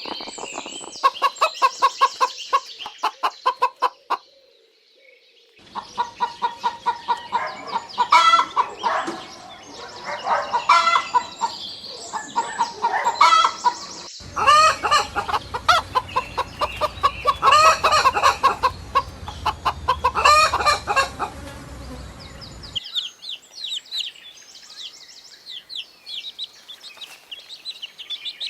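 Chickens clucking in quick runs of calls, as several separate clips cut together with a brief pause between two of them. Near the end, higher, thinner cheeping takes over.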